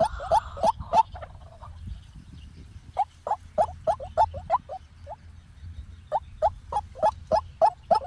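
White-breasted waterhen calling: a run of short, rising notes, about three a second. The calls break off after about a second and start again about two seconds later, keeping up the steady rhythm.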